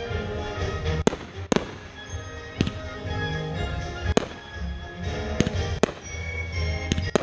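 Fireworks going off in a string of sharp bangs, roughly one a second, over a low rumble, with music playing along.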